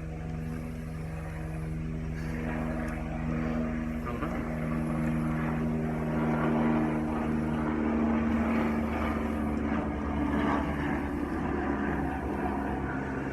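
A motor engine's steady drone, swelling slowly and easing off again.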